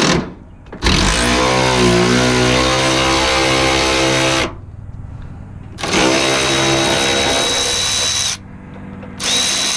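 Handheld power tool backing out a rusty body bolt on a first-generation Dodge Ram, its motor winding up and running in three runs: a long one of about three seconds, a second of about two and a half, and a short one near the end.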